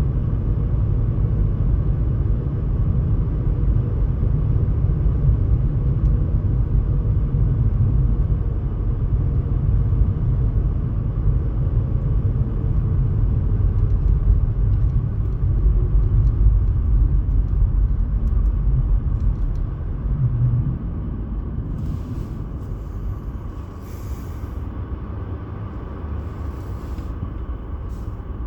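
Steady low rumble, like a vehicle or wind buffeting the microphone, that drops in level about twenty seconds in.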